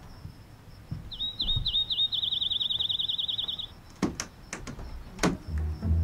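A small songbird singing: a few separate high, downward-sliding notes that run into a quick trill, lasting a couple of seconds. After it come a few sharp knocks and low thumps.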